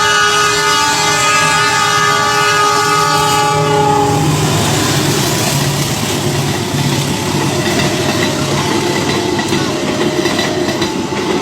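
A train horn sounds one long, loud blast that stops about four seconds in. Then the train passes, its wheels rumbling and clattering on the rails.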